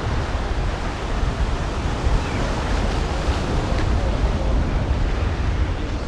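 Surf and wind, with gusts buffeting the microphone as a steady low rumble under an even wash of wave noise.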